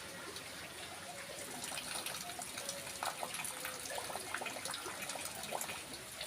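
Steady rain falling, a continuous hiss dotted with many small drop impacts and pouring runoff.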